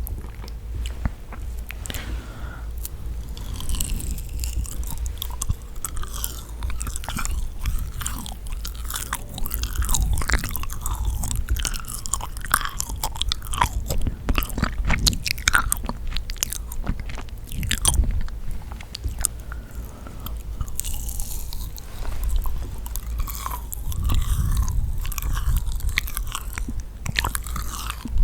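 Close-miked biting and chewing of yakgwa, the honey-soaked Korean fried cookie: repeated bites and sticky, moist chewing with small crackles.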